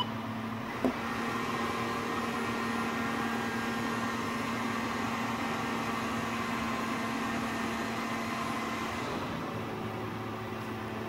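Lexus IS200's straight-six engine running at a steady speed under load on a chassis dyno, with a TorqAmp electric supercharger switched on to boost it. A steady low tone from the engine sits under a rushing noise, which eases off about nine seconds in.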